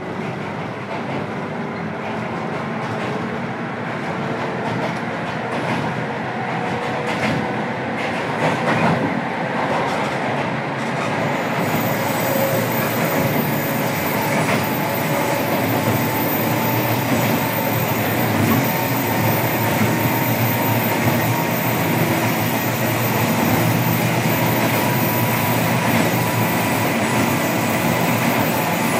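Running sound inside a JR Kyushu 103 series electric multiple unit's motor car (MoHa 102-1518): wheel and rail noise with the whine of the motors and gears, growing steadily louder and slightly higher as the train picks up speed. A high thin whistle joins about a third of the way in.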